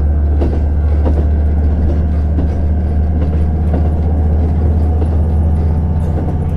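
JR Hokkaido KiHa 150 diesel railcar running along the line: a steady, loud low drone from its diesel engine, with rail noise and faint scattered clicks from the track.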